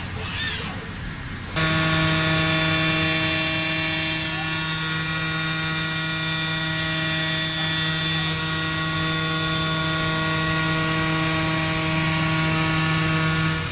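A machine running with a steady, unchanging pitched hum and whine that starts suddenly about a second and a half in and cuts off abruptly at the end.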